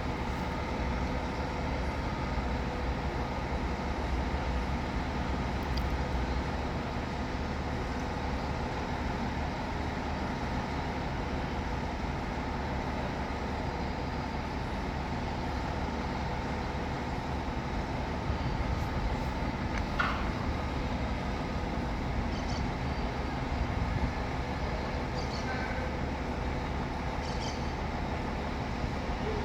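Scania K500C coach's diesel engine running steadily, with a few brief ticks or clicks about two-thirds of the way through.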